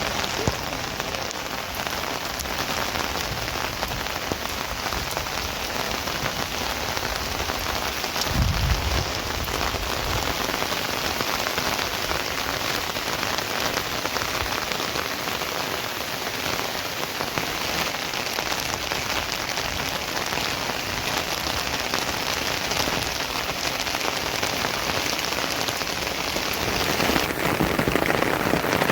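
Steady rain falling, an even dense hiss of drops. About eight seconds in there is a brief low rumble, and near the end the rain grows louder.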